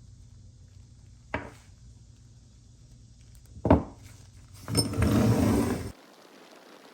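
Two sharp knocks of hard parts, the second louder, then a noisy burst lasting about a second that cuts off abruptly.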